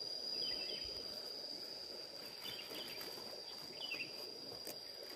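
An insect, cricket-like, trilling steadily at one high pitch over a low, even rush of river water, with a few brief chirps about half a second, two and a half and four seconds in.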